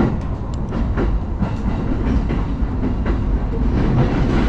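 JR Yokohama Line electric commuter train running on the rails: a steady low rumble with scattered clicks from the wheels and track.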